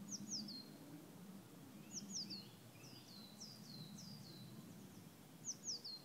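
A songbird calling in short bursts of two to four high, quick down-slurred notes, about four bursts with pauses between, over a faint steady low rumble.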